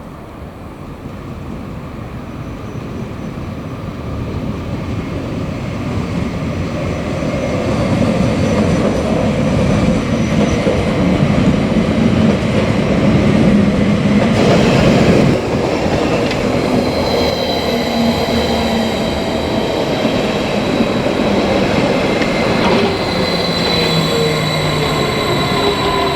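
A train pulling into the station, growing louder over the first several seconds as it approaches. In the second half its wheels squeal in high steady tones and the pitch sinks as it brakes.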